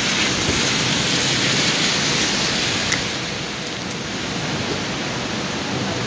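Heavy rain falling on wet pavement and parked cars: a steady, dense hiss that eases slightly about halfway through, with a single brief tap about three seconds in.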